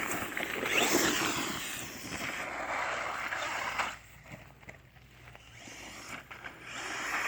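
Electric RC monster truck (Redcat Volcano EPX Pro) driving, its motor whine rising and falling with throttle over tyre noise on the ground. The sound drops away suddenly about four seconds in and builds again near the end.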